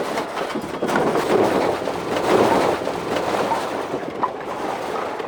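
A load of split oak firewood tumbling and clattering, many pieces knocking together in a continuous rattle.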